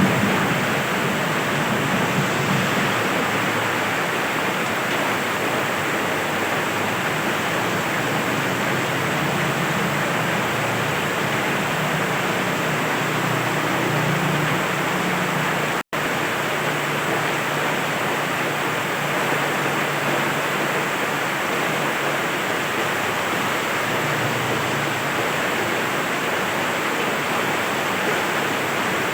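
Rain falling steadily, an even continuous rush with no distinct drops or thunder, broken by a momentary gap about halfway through.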